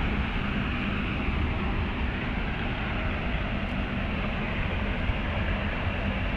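Steady rumble and hiss of city traffic.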